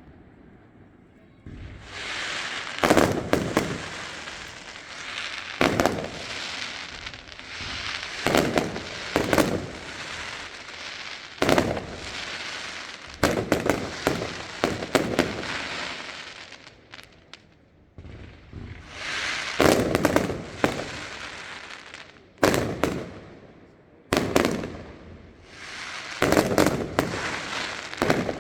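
Aerial fireworks display: shells bursting with sharp bangs every second or two, a dense fizzing haze of noise between them, and a short lull about two-thirds of the way through.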